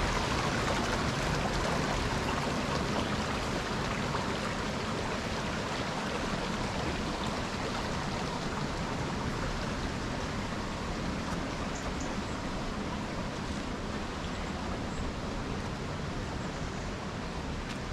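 Steady rush of flowing river water, slowly fading a little.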